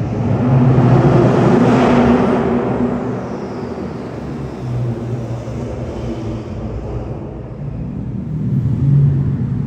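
A car's engine running with road noise; it swells louder over the first two seconds then eases off, with a shorter swell near the end.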